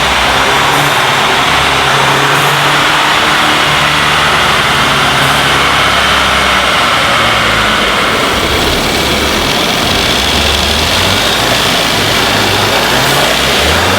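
Volkswagen MK6 GTI's turbocharged 2.0 TSI four-cylinder engine running under load as the car drives and accelerates, a loud, steady mix of engine note and noise whose pitch shifts about two thirds of the way through.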